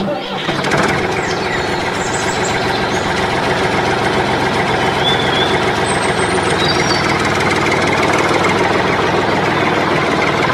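Tractor engine running steadily, a dense, even diesel-like chug. A few faint high chirps sound above it.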